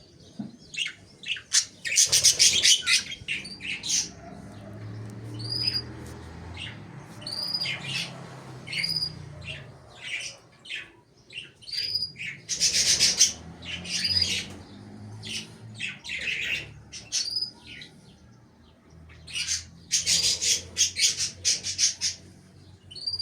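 Budgerigars chattering: a string of short high chirps, some repeated about once a second, broken by bursts of harsh squawks three times.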